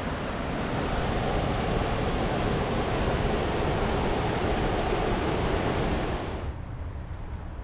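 Steady rush of water falling and cascading down a stream. About six and a half seconds in, the hiss cuts off abruptly, leaving a quieter low rumble.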